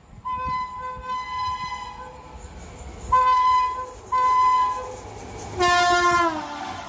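Locomotive horn of a fast-approaching express train: one long blast, two short blasts, then a last blast whose pitch drops steeply as the train passes.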